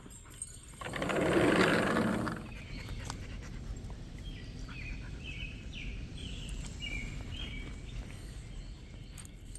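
A loud burst of noise about a second in, lasting about a second and a half, then a bird chirping in short, varied notes.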